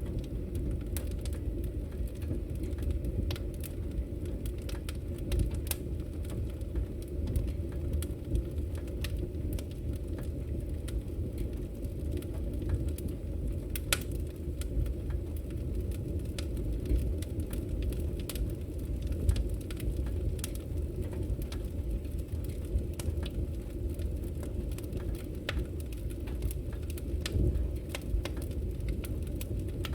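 Wood fire burning: a steady low rush of flame with frequent irregular crackles and pops from the burning wood, a sharper pop now and then.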